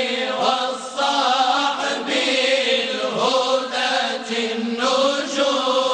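Moroccan madih, a devotional song in praise of the Prophet, chanted slowly with long drawn-out syllables. The words 'wa-ṣ-ṣaḥb al-hudāt' are sung a word every two seconds or so.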